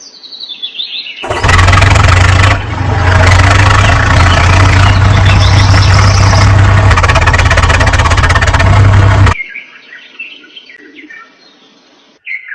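Tractor engine running loudly with a heavy low hum for about eight seconds, starting and stopping abruptly. Short chirping bird calls come before and after it.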